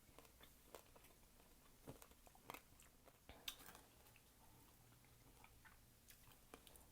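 Faint chewing of a candied strawberry, with scattered small crunching clicks.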